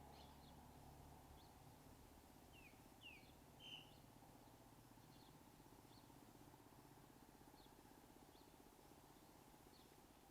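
Very faint outdoor ambience with small birds chirping: short high chirps repeat every second or so, with a few louder chirps about three to four seconds in.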